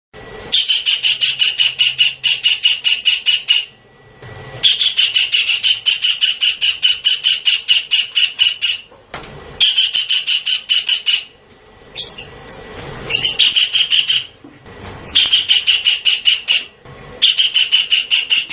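Javan kingfisher calling: loud, rapid rattling series of high, harsh notes, repeated in about six bouts of two to four seconds with short breaks between them. This is a recorded lure call.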